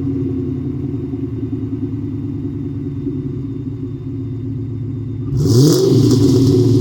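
Ford Mustang V8 running through a Rush Racing round sport resonator exhaust, idling with a steady low rumble, then revved quickly about five seconds in and running louder after.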